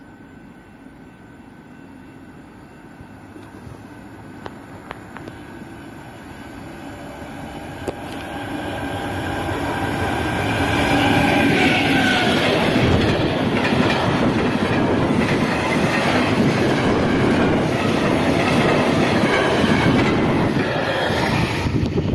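Freight train approaching and passing close by: the sound builds steadily for about ten seconds, faint tones first, then the locomotive reaches the microphone and the loud, steady rumble of wheels on rails carries on as the wagons roll past.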